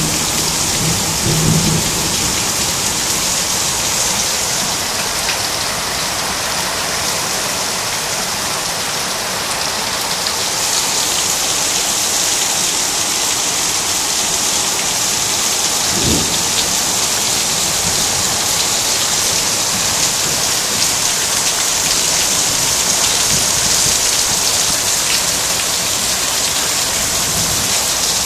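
Heavy rain pouring steadily onto a flooded garden and its paving, a loud even hiss of drops hitting standing water. One brief low thump about halfway through.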